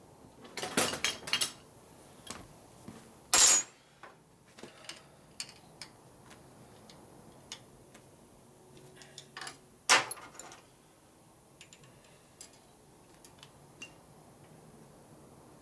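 Hand tools and metal parts clinking and clanking as they are handled, with scattered light clicks and two louder metallic clanks, about three and a half and ten seconds in.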